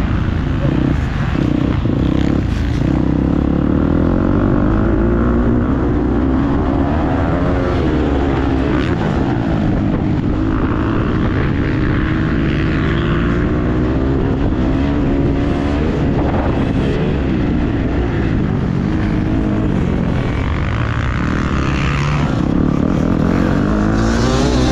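Motocross bike engine revving hard as the bike is ridden around the track, its pitch climbing and dropping again and again as the throttle is worked and it shifts gears.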